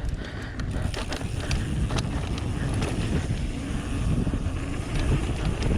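Trek Remedy 8 mountain bike rolling fast down a dirt trail: wind buffets the action camera's microphone over a steady tyre rumble, with scattered sharp clicks and rattles from the bike.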